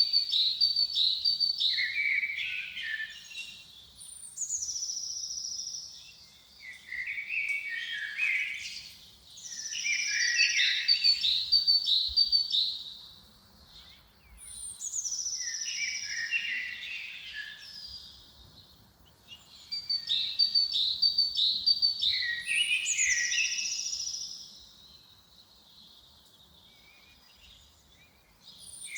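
Songbirds singing in the forest: phrases of two to three seconds, each a quick run of high chirping notes that steps down lower toward its end, repeated with short pauses between. Now and then a high, drawn-out note slides downward.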